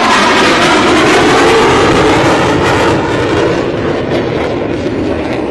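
Military jet passing low at high speed. Its loud engine roar drops in pitch as it goes by and fades somewhat after about three seconds.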